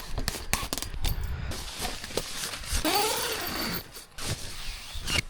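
Tent fabric snapping and rustling in gusty wind, with a quick run of sharp cracks in the first couple of seconds and a rushing wind noise after.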